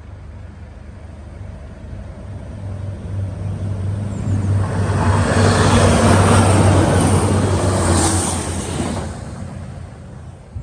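Northern Ireland Railways Class 3000 diesel multiple unit approaching and running past: a low engine hum builds over the first few seconds. Loud rushing wheel-on-rail noise then peaks around the middle and dies away near the end as the train moves off.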